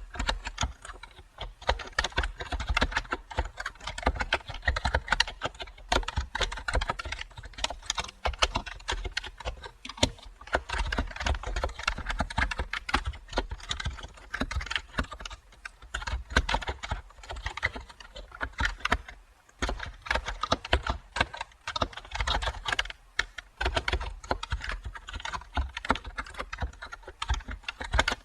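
Computer keyboard typing: fast, irregular key clicks in continuous runs, with a brief pause about two-thirds of the way in.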